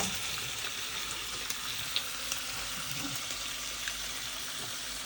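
Bacon and a freshly cracked egg frying in oil in a pan: a steady sizzle with a few faint crackles.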